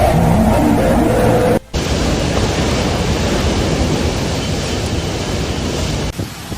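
Storm wind and heavy rain making a loud, steady rush of noise, broken by a sharp cut about a second and a half in where it drops out for an instant and resumes. Before that cut a few steady tones sit over the noise.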